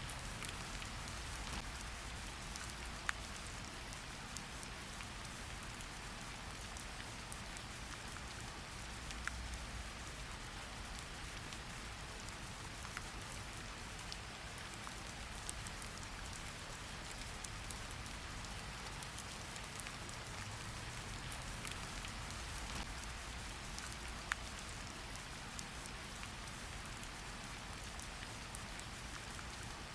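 Steady rain falling, an even hiss with a few louder single drops landing now and then.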